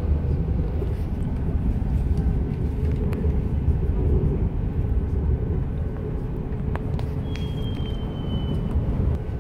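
Steady low rumble of a passenger train running, heard from inside the carriage, with a few sharp clicks and, near the end, a thin high tone that falls slightly over about a second and a half.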